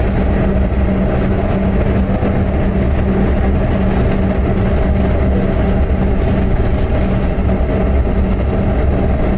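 Steady cabin noise of a Bombardier CRJ200 taxiing: its rear-mounted turbofans running at low power together with the cabin air system, a constant low rumble with a steady hum and a faint high whine.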